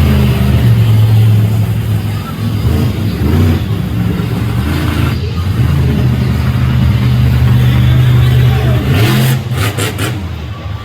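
Monster truck engine running loud at high revs, held steady for a couple of seconds, dipping, then held steady again for several seconds before easing off near the end.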